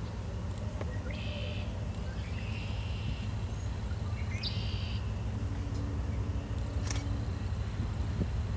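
Songbirds chirping in a few short phrases over a steady low rumble.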